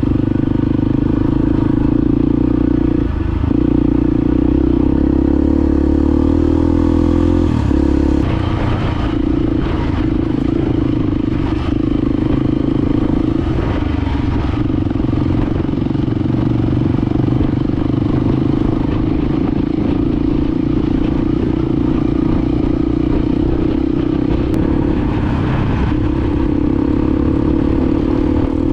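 Honda XR250 Baja's air-cooled single-cylinder four-stroke engine running steadily while riding, with brief changes in the note about 3 and 8 seconds in, and scattered rattles and clatter after that.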